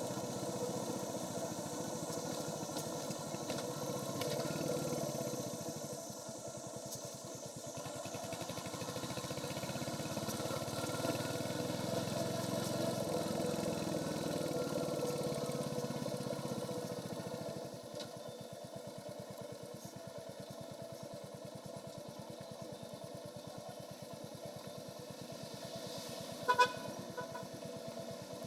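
Royal Enfield Hunter 350's 349 cc single-cylinder engine running on the stock exhaust while riding, louder at first and then dropping quieter about two-thirds of the way through. A horn beeps briefly near the end.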